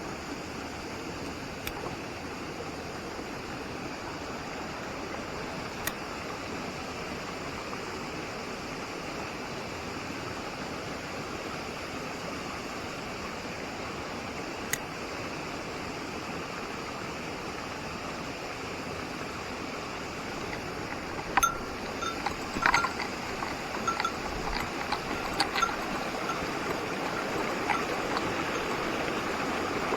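Steady rush of a mountain stream. From about two-thirds of the way in come a run of light metallic clinks with short bell-like rings.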